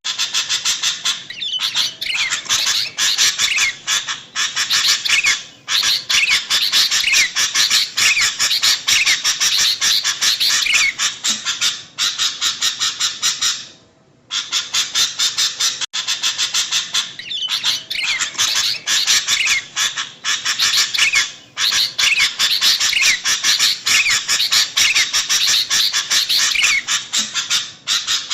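Sooty-headed bulbuls (kutilang) calling noisily: a dense run of rapid, chattering calls with quick pitch sweeps, broken by a few short pauses. The recording repeats itself about every 14 seconds.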